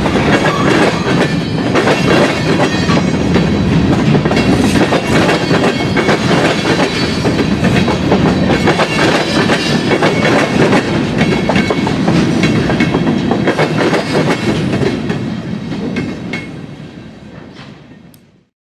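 Train rolling by, its wheels clattering over the rail joints, fading away over the last few seconds before cutting off.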